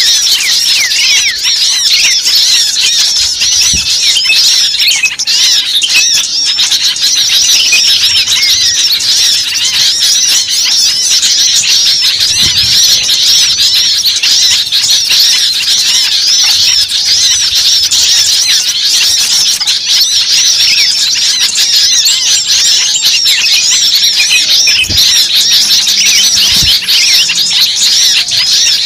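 A dense chorus of many birds chirping and squawking at once, a continuous overlapping chatter of short high calls with no pause.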